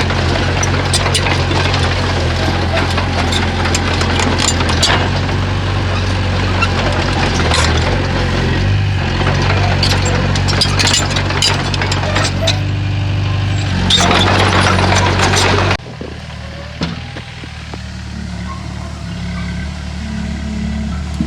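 Komatsu bulldozer's diesel engine running under load, with a steady low hum overlaid by dense clattering and scraping of tracks and rock. About three quarters of the way through, the sound cuts abruptly to a quieter, steady engine hum without the clatter.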